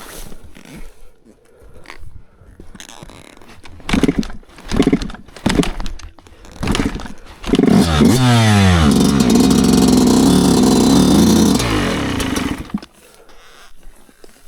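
Yamaha YZ125 two-stroke dirt bike engine being kick-started: a few short coughs as it is kicked over, then it fires and revs up, runs loudly for about four seconds, and drops away near the end.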